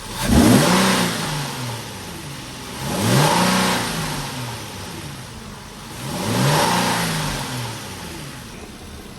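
Infiniti G35's 3.5-litre V6 being revved three times from idle, about three seconds apart. Each rev climbs quickly and falls back to idle over a second or two.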